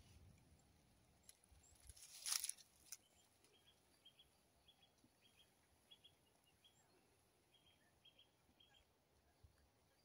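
Faint, short, high bird chirps repeated every half second or so, in near silence, after a brief rustling noise about two seconds in.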